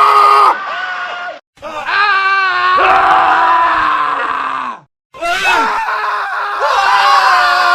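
Men screaming, a series of separate screams cut one after another with two brief silent gaps between them. One scream wavers in pitch and another slides down at its end.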